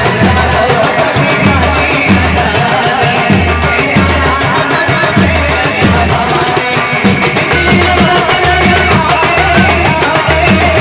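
Banjo-party band music: an amplified Indian banjo plays the melody of a Hindi film tune over a steady, regular drum beat.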